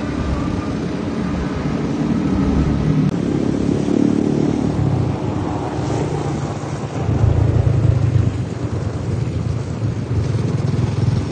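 Motorbike engine running on the move, with wind buffeting the microphone; the rumble gets louder about seven seconds in.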